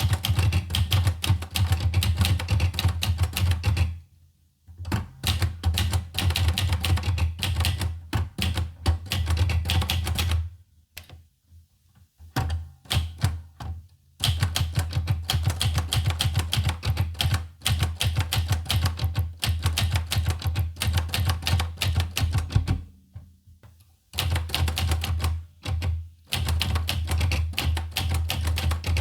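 Olivetti Lettera 25 manual portable typewriter being typed on in fast runs of keystrokes, broken by a few short pauses, with a longer stretch of only scattered strokes about a third of the way in.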